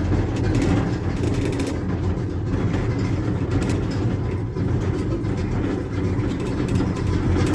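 Steady low rumble and rattle of a moving vehicle, with scattered clicks through it.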